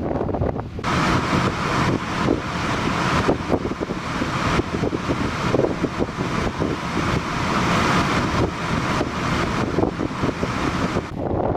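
Blizzard wind buffeting the microphone, rough and gusty, with a brighter steady hiss coming in about a second in and dropping away near the end.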